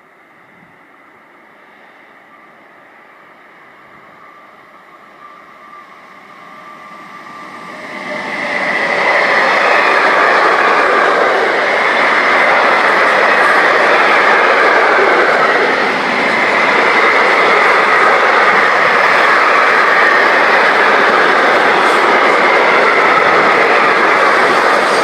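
An intermodal container freight train approaching and passing close by. Its noise grows slowly at first, then about eight seconds in becomes a loud, steady rolling noise of wheels on rail as the container wagons go past.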